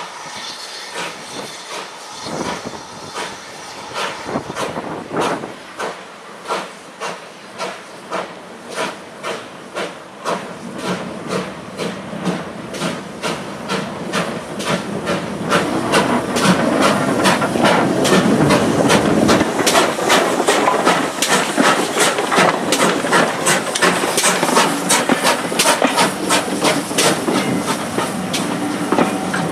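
Steam locomotive working hard, its exhaust beats coming about one and a half a second at first and quickening as it draws nearer and grows louder, with a steady hiss of steam.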